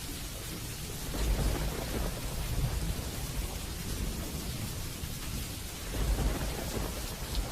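Steady heavy rain hissing, with low rolls of distant thunder swelling about a second in and again near the end.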